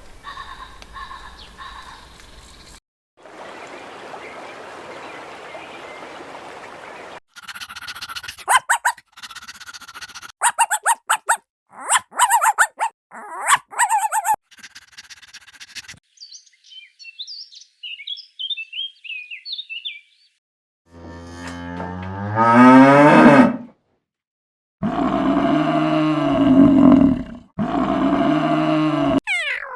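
A series of different animal calls, one clip after another with short gaps: a noisy stretch, a run of quick sharp calls, high chirping in the middle, then long low calls near the end, the first rising in pitch.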